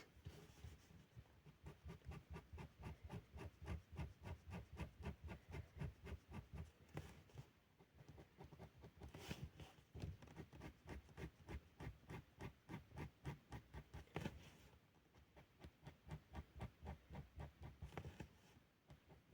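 Felt-tip pen scratching on paper in quick, rhythmic back-and-forth strokes, about four or five a second, as lines are hatched in; the strokes pause briefly a few times. Faint.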